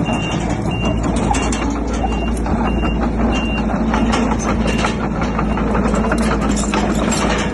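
Reversing alarm of a heavy construction machine beeping at an even pace over a diesel engine running steadily, with scattered clanks; the beeps fade out about five seconds in.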